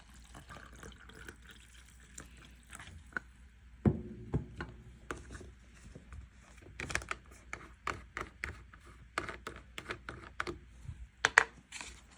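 Mug and milk carton being handled while decaf coffee is made up with non-dairy milk: scattered light clinks and knocks, a louder thump about four seconds in, and a quicker run of sharp clinks in the second half.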